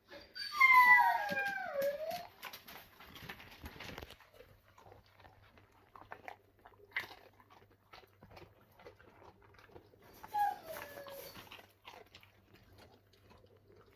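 Alaskan Malamute giving a loud, drawn-out vocalization that falls in pitch about half a second in, then crunching and chewing a treat, with a second, shorter falling whine around ten seconds in.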